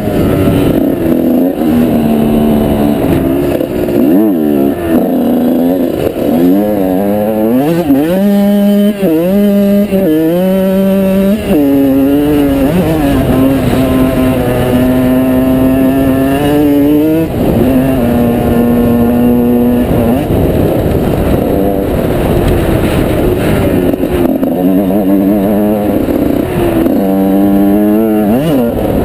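Off-road motorbike engine running hard, revving up and easing off again and again, with a few steadier stretches of even running in between.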